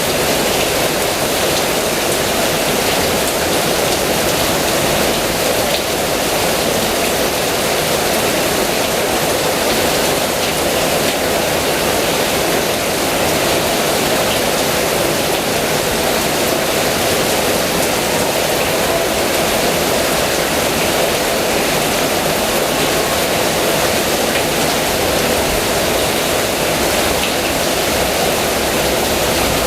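Heavy rain falling steadily, a loud, even rush of noise that does not let up.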